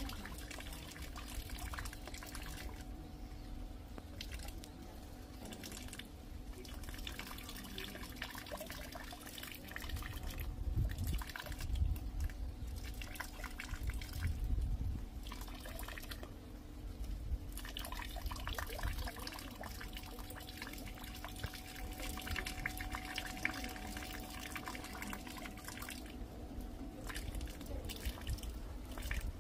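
Rain dripping and rainwater trickling: many small drops landing close by, over a faint steady hum.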